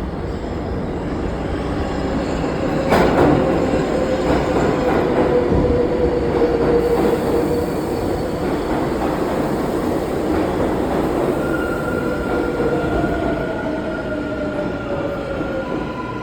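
Subway train moving through the station, its wheels rumbling on the rails with a sharp clack about three seconds in. Thin wheel squeals slide down in pitch, and steady higher squeals come in toward the end.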